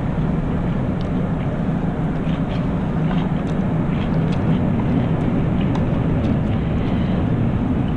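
Faint wet clicks of chewing food over a steady low rumbling background noise.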